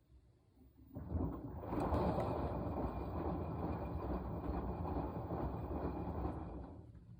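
Washing machine running: about a second in, a churning, rumbling noise starts and goes on for about six seconds, then fades out near the end, with faint ticking in the quiet before it.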